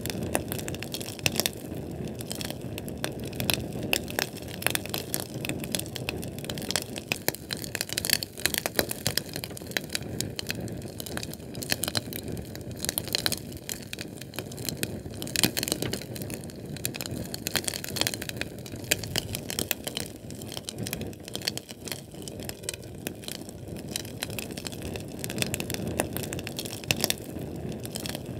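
Fire burning with a steady low rumble of flame and dense, irregular crackles and pops.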